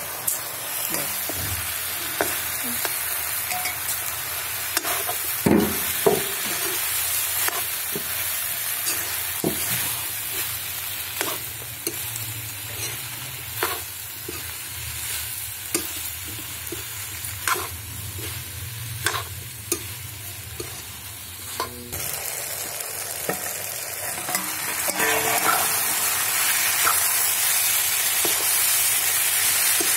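Aloo gobi frying in a metal kadhai: a steady sizzle, with the metal ladle scraping and clinking against the pan every second or two as it is stirred. The sizzle grows louder over the last few seconds.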